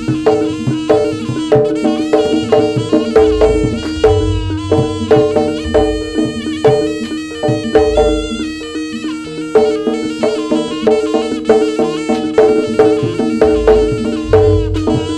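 Live Javanese jaranan music: a shrill reed wind instrument plays a winding melody over a steady held tone, with kendang drums and gamelan percussion striking a regular beat.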